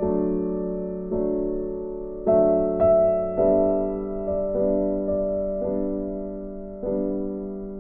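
Slow, gentle keyboard music in a piano sound: held chords and single notes struck about once a second, each fading slowly.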